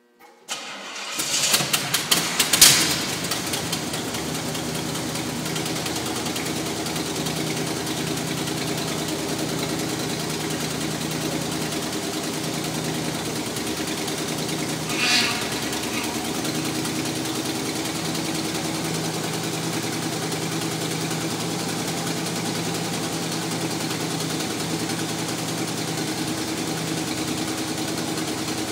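Pontiac GTO's V8 cranking and catching about a second in, with a few sharp revs as it fires, then settling into a steady idle inside a concrete parking garage. A short higher-pitched sound rises over the idle about halfway through.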